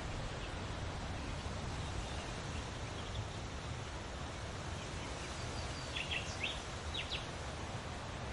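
Steady rush of a soft breeze, with a low rumble underneath. A few faint bird chirps come about three seconds in, then a quick cluster of short, high chirps around six to seven seconds in.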